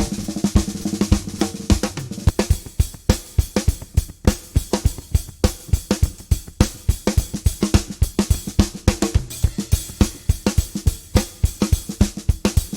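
Drum kit playing a fast, busy rhythm of kick, snare, hi-hat and cymbal strokes, with a held low note under the first two seconds.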